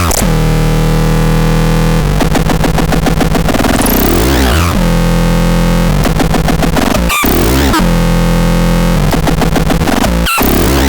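Electronic synthesizer playing a loud, harsh, buzzy drone that alternates between steady held tones and a fast pulsing stutter, with falling sweeps and abrupt switches between sounds several times.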